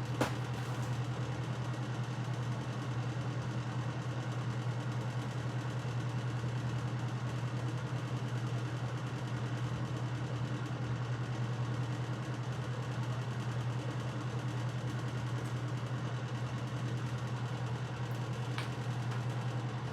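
A steady low mechanical hum, with a faint click just after the start and another near the end.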